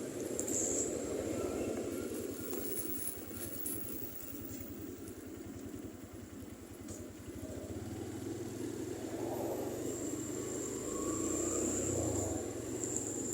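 Motorcycle engine running while riding, with road and wind noise; it grows louder about two-thirds of the way through.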